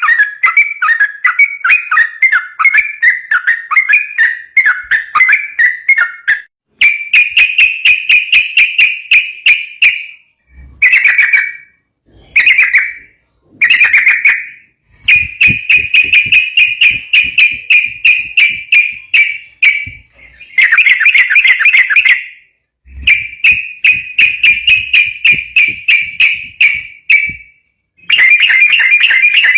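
Yellow-vented bulbul (trucukan) singing rapidly and without let-up, the continuous 'ropel' song of an actively singing bird. The song comes as runs of quick, repeated chattering notes, some lasting several seconds and some under a second, with brief pauses between them.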